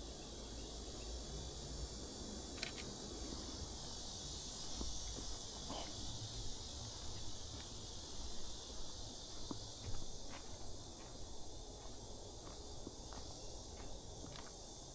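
Steady high-pitched insect chorus, with low rumble and a few faint footsteps and clicks beneath it.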